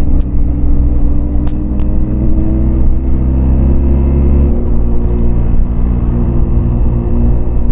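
Yamaha MT-25's parallel-twin engine running under way while ridden, its pitch climbing slowly and then dropping suddenly about four and a half seconds in before holding steady again. A few brief clicks in the first two seconds.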